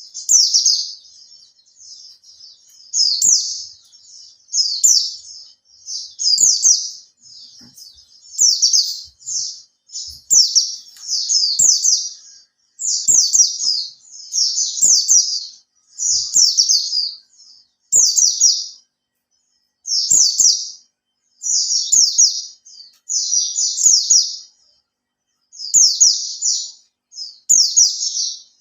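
White-eye (pleci) singing: a long series of short, fast, high-pitched twittering phrases, each under a second, repeated every second or two with brief pauses between them.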